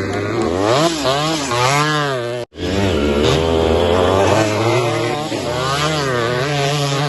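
Motocross dirt bike engines running loud and revving up and down over and over, with a brief cut in the sound about two and a half seconds in.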